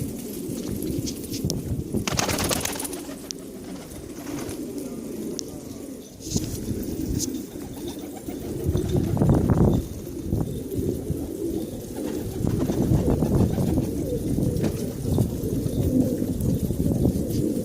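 Several domestic pigeons cooing continuously in low, pulsing calls that overlap one another.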